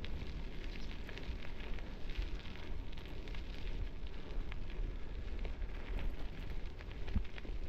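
Bicycle tyres rolling down a gravel road, with a steady crackle of small stones under the wheels and a few sharper knocks near the end, over a low rumble of wind on the microphone.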